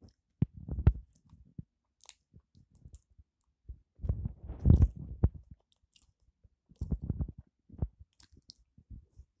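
Close-up chewing and biting of a peanut butter and jelly sandwich on soft white bread, with wet mouth clicks, in irregular bursts that are loudest about four to five seconds in.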